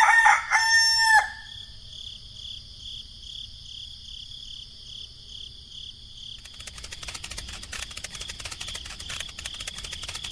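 A rooster crowing once, ending in a long held note about a second in. After it comes a faint, steady, high pulsing chirp, and from about two-thirds of the way through a rapid dry clicking joins it.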